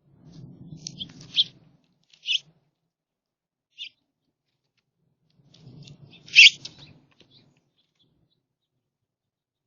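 Songbirds at a feeder giving several short chirping calls, the loudest about six and a half seconds in, over a low muffled rumble during the first two seconds and again around that loudest call.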